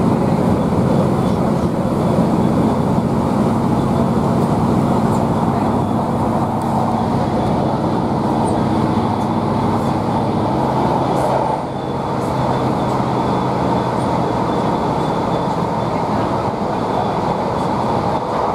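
Class 153 diesel railcar running at speed, heard inside the passenger saloon: a steady drone from its underfloor Cummins diesel engine over the rumble of wheels on rail. The sound dips briefly a little past halfway, then carries on.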